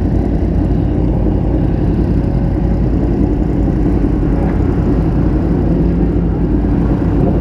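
Motorcycle engine running steadily under a heavy, even low rumble of wind and road noise.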